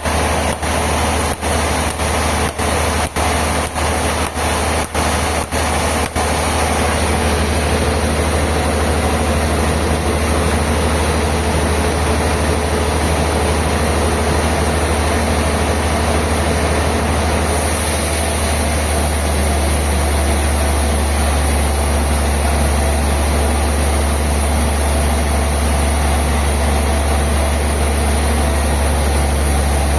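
Sawmill machinery running with a steady, loud low drone and hiss. The sound drops out briefly about a dozen times in the first six seconds, then runs on unbroken.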